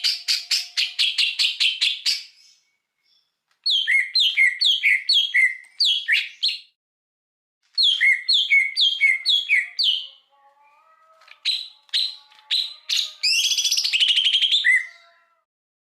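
Songbird song played as a masteran recording for training cage birds: phrases of fast repeated chirps and of whistled notes sweeping downward about four times a second, parted by short silent gaps. Near the end comes a quick run of ticking notes, then a dense, scratchy chattering phrase.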